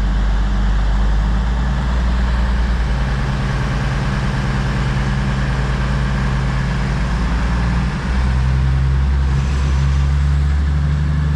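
Class 222 Meridian diesel multiple unit's underfloor diesel engines running, a loud steady low drone whose engine notes shift to a new pitch about eight seconds in.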